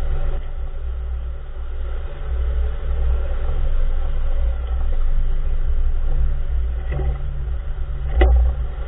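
Low road and tyre rumble of a 2014 Nissan March on the move, with two short clunks from the front wheel area near the end, the second louder. The clunk is of unknown cause.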